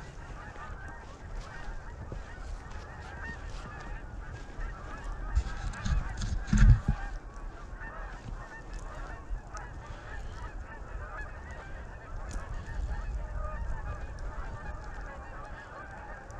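A flock of geese honking continuously, many calls overlapping. A brief low rumble about six seconds in is the loudest moment.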